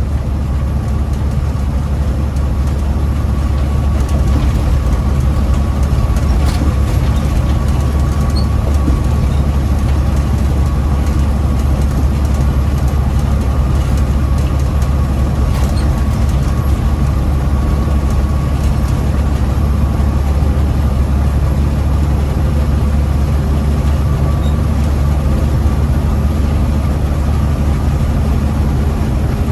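Big rig diesel engine and road noise heard inside the cab while driving, a steady low drone with a faint steady whine above it.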